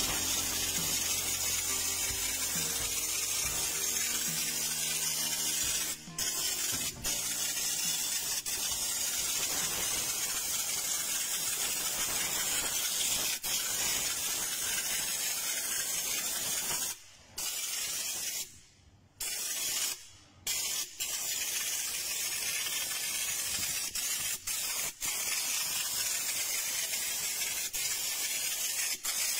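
Compressed-air spray gun spraying stone guard coating, a steady loud hiss that stops briefly a few times, around six seconds in and again near the middle, as the trigger is let go.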